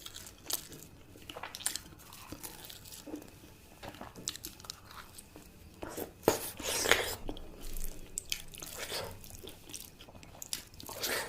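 Close-miked chewing and biting of food: irregular mouth smacks and crunches, with the loudest bites about six to seven seconds in.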